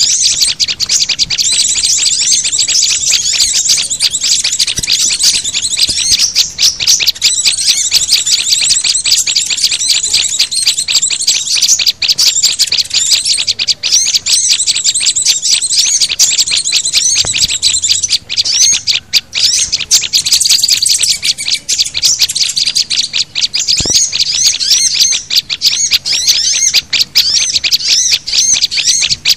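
A dense, unbroken chorus of rapid high chirps and short trills from small songbirds. It is a bird-lure call track that mixes white-eyes, prinias, sunbirds and flowerpeckers, used to draw small wild birds in.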